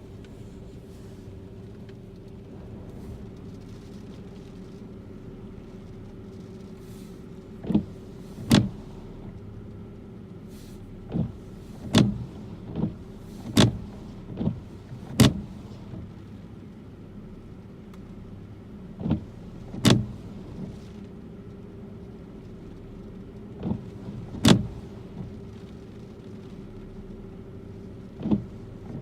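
Steady low hum of a car, with about a dozen sharp knocks at irregular intervals from a few seconds in.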